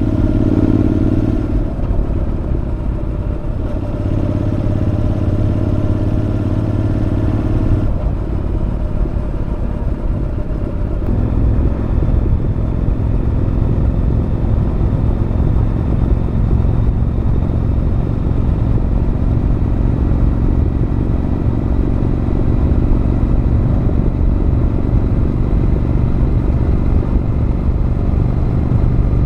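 Honda NC750X parallel-twin engine running through a Moriwaki aftermarket muffler while riding. It pulls harder in the first few seconds, eases off around eight seconds in, then settles into steady cruising from about eleven seconds on.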